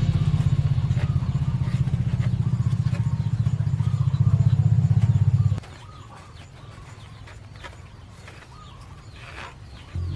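A motor running steadily with a low pulsing drone, which cuts off suddenly about five and a half seconds in, leaving a much quieter background with a few faint clicks.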